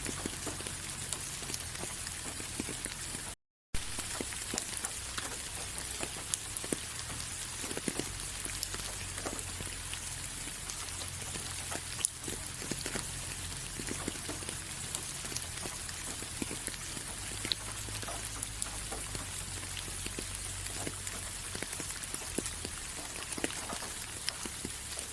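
Steady rain with many individual drops ticking on a surface over a continuous hiss. The sound cuts out completely for a moment about three and a half seconds in.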